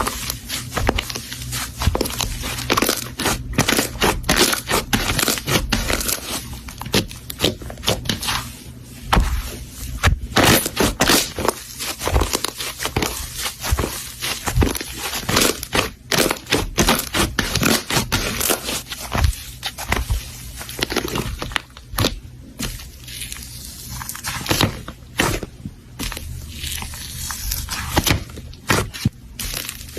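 Slime being handled, giving a dense, irregular run of small crackling pops and clicks.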